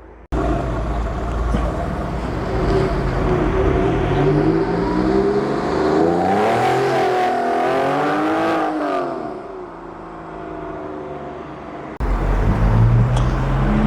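A petrol car engine pulling away and driving past, its note rising as it accelerates and falling again a few seconds later. After a sudden cut near the end, a second, deeper engine note comes in.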